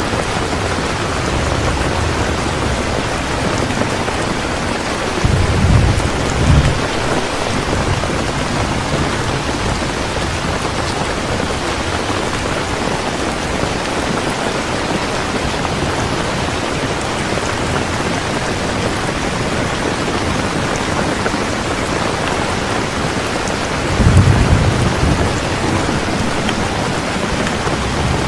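Heavy rain falling steadily, with two low rumbles of thunder: one about a fifth of the way in and one near the end.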